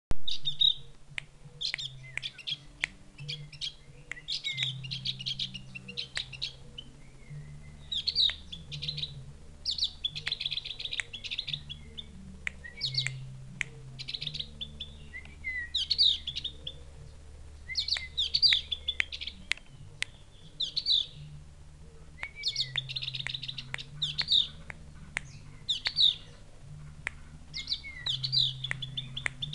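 Javan grey-throated white-eye (opior jawa) calling in repeated bursts of high, chick-like chirps every second or two, with sharp little clicks between the calls.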